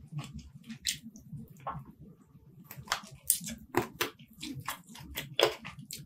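Close-up wet chewing and lip-smacking of a person eating chicken curry off the bone with his fingers: irregular sharp smacks and squelches, a few louder ones near the middle and about a second before the end.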